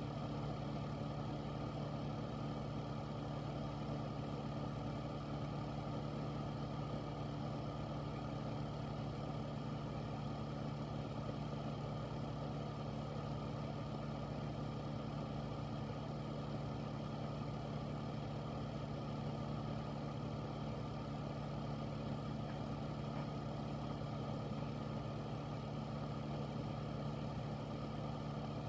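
Air filter fan running steadily: a constant rush of air with a low, even hum underneath.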